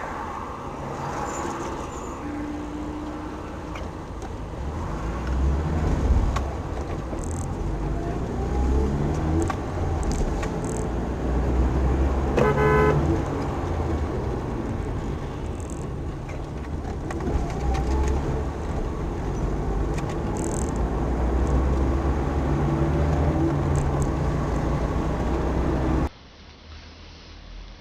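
Car engine running with road and traffic noise, and a short horn toot about halfway through. The sound cuts off abruptly near the end.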